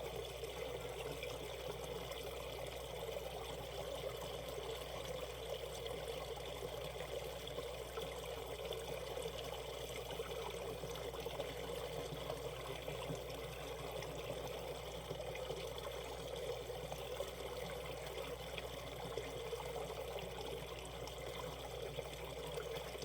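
Shallow valley stream running steadily, a continuous flow and trickle of water with no breaks.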